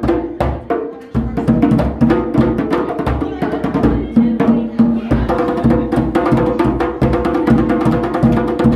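Several hand drums played together in a fast, dense rhythm. The drumming dips briefly about a second in, then comes back in full.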